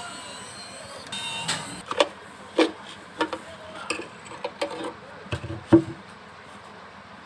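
A string of irregular clicks and knocks from the plastic case of a Tenda O3 outdoor router being handled and opened, with the loudest knock near the end.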